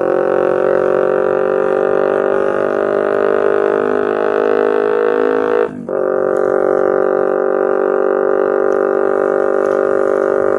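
Kawasaki Ninja 250R's parallel-twin engine through a loud Austin Racing aftermarket exhaust, holding steady revs on the move with a constant droning note. The revs drop briefly about six seconds in, then come back to the same steady drone.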